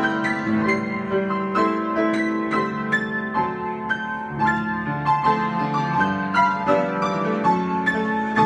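Solo piano improvisation: many overlapping held notes and chords, with new notes struck every half second or so.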